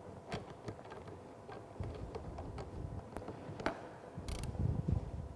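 Metal clicks and clunks from a hydraulic pipe bender being worked by hand as its release valve is opened so the oil goes back to the pump and the ram lets go of the bent galvanized pipe. There are a few low rumbling stretches, the longest near the end.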